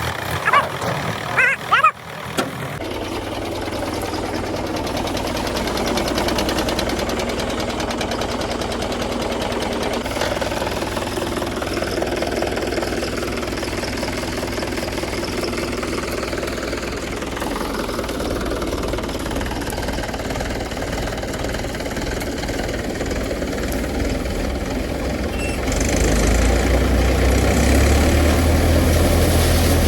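Tractor diesel engine running steadily. About 26 seconds in it grows louder and deeper.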